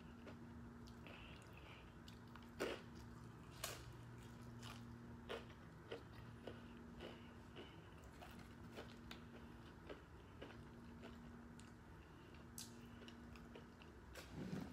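Close-up mouth sounds of chewing and crunching Takis rolled tortilla chips and a taco, with sharp crunches every second or two, the loudest a few seconds in.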